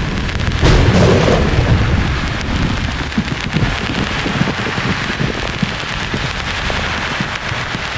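Thunder over a steady hiss of rain-like noise: a sharp thunderclap about a second in, then a low rumble that slowly fades.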